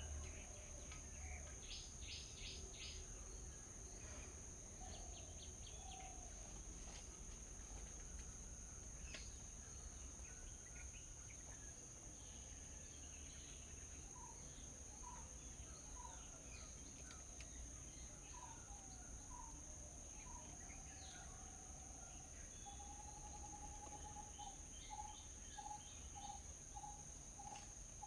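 Wild birds chirping and calling, with quick bursts of high notes early on and, in the last few seconds, one bird repeating a short clear note over and over. A steady high insect drone, like crickets, runs underneath.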